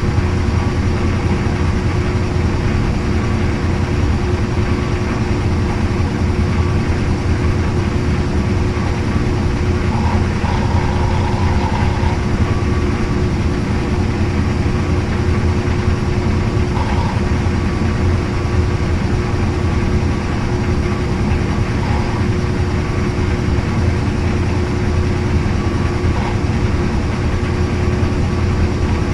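Washing machine running: a loud, steady low motor hum with a constant tone over it, unchanging throughout.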